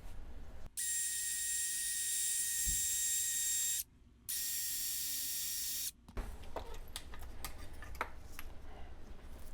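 Two bursts of steady, high hiss from a pressurised air or spray nozzle, each carrying a faint thin whistle and stopping abruptly, the second shorter than the first. Light clicks and scraping from handling the part come before and after.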